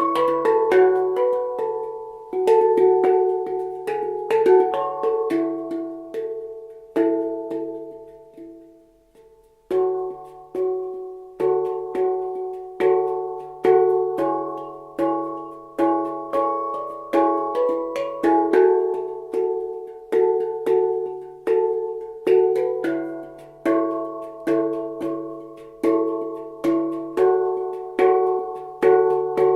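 Handpan in the Humming Bird D scale (D, E, F#, G#, A, B, C#, D) played by hand: struck notes ringing over the low D centre note in flowing, rhythmic patterns. About a quarter of the way in the playing stops and the notes ring out to near quiet, then it starts again.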